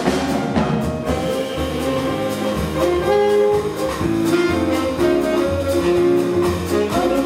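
Live jazz played by a small band: saxophone lines over piano, bass and drum kit, with steady drum strokes throughout.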